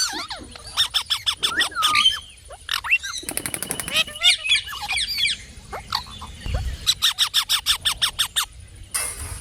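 Indian ringneck parrot calling: several rapid runs of sharp repeated squawks, with gliding whistled notes in between.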